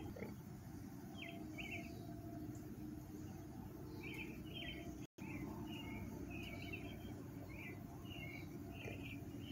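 Birds chirping in short, irregular calls, most of them in the second half, over a low steady rumble. The sound cuts out for a split second about five seconds in.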